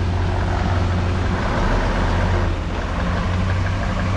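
Diesel engine of a Nissan CK 31 L concrete pump truck running with a steady low drone.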